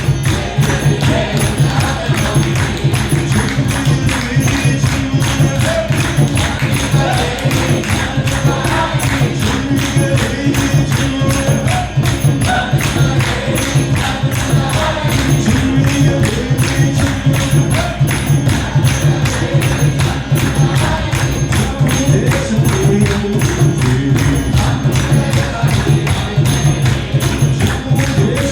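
Kirtan music: voices chanting a melody over fast, steady jingling percussion and a sustained low drone.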